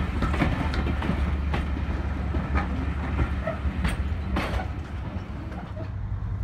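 Passenger coaches rolling slowly past, their wheels clacking over rail joints above a low rumble. The last and loudest clacks come about four seconds in as the end of the train passes, after which the sound eases off.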